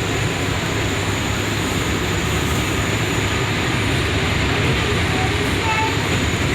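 R179 subway train in motion, heard from inside the car: a steady loud rumble of wheels on rail, with a couple of short faint squeals about five seconds in.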